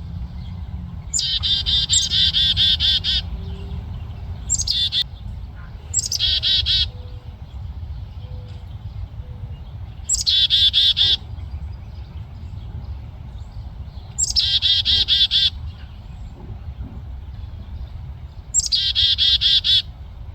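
Nestling birds chirping in quick, rapidly repeated bursts: about six bouts of a second or two each, spaced a few seconds apart. These are the begging calls of young birds being fed by their parents. A steady low rumble runs underneath.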